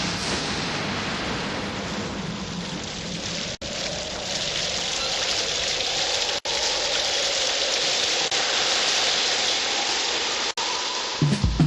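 Steady heavy rain falling, which cuts out for an instant three times. A plucked guitar comes in just at the end.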